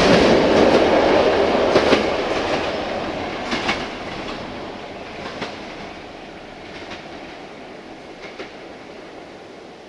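A train with passenger coaches rolling away through a rail tunnel, its wheels clicking over the rail joints. The rumble fades steadily, with a few louder clicks about 2 and 3.5 seconds in.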